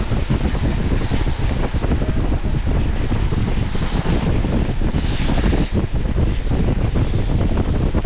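Steady low rumble of a car driving, with wind buffeting the microphone and the hiss of tyres on a wet road. A louder hiss swells briefly about four seconds in and again about five seconds in.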